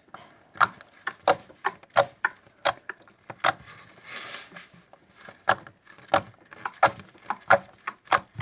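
Slime being squeezed and stretched by hand, giving a string of sharp clicking, popping sounds as air pockets burst, roughly one to two a second.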